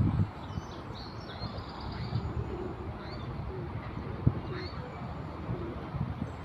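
Birds chirping faintly, with a short high trill about a second in and a few scattered chirps after, over a steady low rumble with an occasional soft knock.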